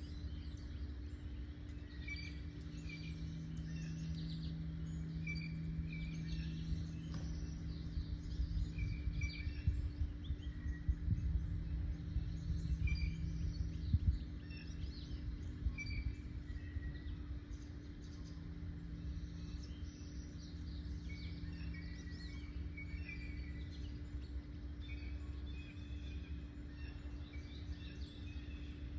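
Several wild birds chirping and singing in short, repeated notes, over a steady low hum and rumble of background noise.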